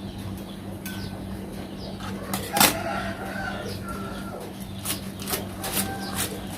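Chickens clucking with a rooster crowing in the background, over a steady low hum, with a few sharp clicks; the loudest click comes about two and a half seconds in.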